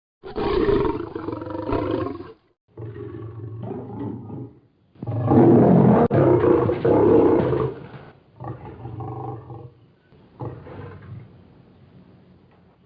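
A series of big-cat roar and snarl sound effects, lion and tiger roars mixed: five roars with short gaps between them. The third is the loudest and longest, and the last two are weaker and trail off.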